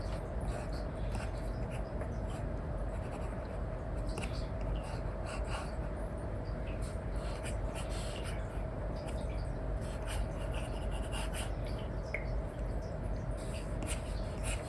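Stylus nib scratching and tapping in many short strokes on a paper-like screen film, over a steady low hiss and hum.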